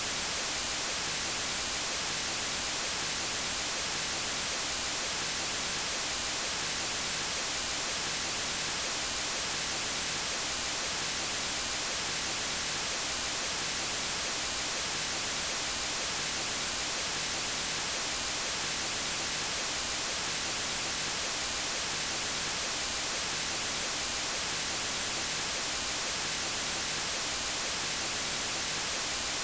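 Steady white noise: an even, unchanging hiss across all pitches, brightest at the top.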